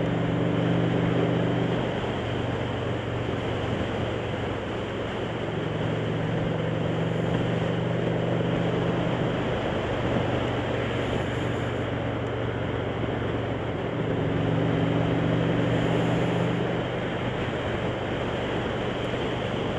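Motorcycle engine running at a steady cruising speed under heavy wind and road rush, the engine hum growing stronger and fading a few times with the throttle.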